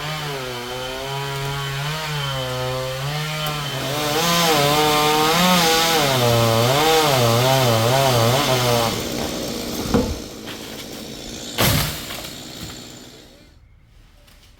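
Stihl two-stroke chainsaw running hard and cutting through wood, its engine pitch rising and dipping as the chain bites, loudest in the middle. It stops about nine seconds in, followed by two sharp knocks.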